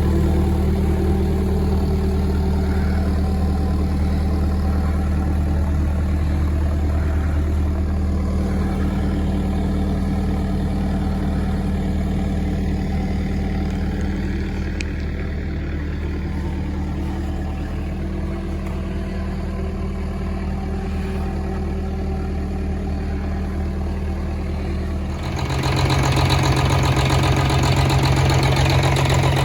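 Detroit Series 60 inline-six diesel in a Peterbilt 379 idling steadily. About 25 seconds in, the engine speed steps up to a higher, louder steady run.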